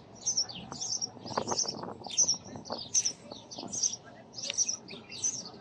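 A small bird chirping over and over, short high notes about twice a second, with a few faint low knocks or rustles among them.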